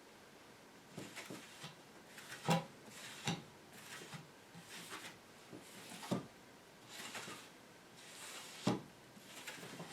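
Handling sounds on a wooden workbench: short rubbing or brushing strokes, with three sharper knocks spread through, the loudest about two and a half seconds in.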